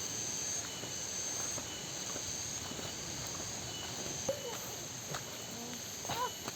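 Insects trilling, a high thin trill that pulses on and off about once a second over a steady background hiss, with faint voices near the end.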